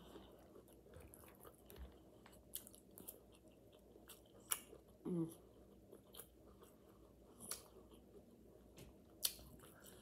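Faint close-miked mouth chewing of food, with sharp wet mouth clicks every second or two and a short falling hum of the voice about five seconds in.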